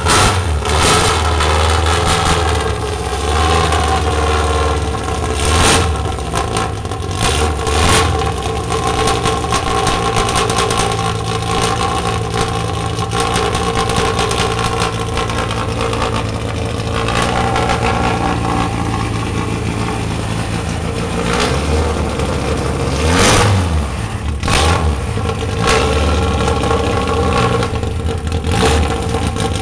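The hand-built Golden Submarine replica race car's engine running loud and steady at idle, with several short, sharp bursts as the throttle is blipped.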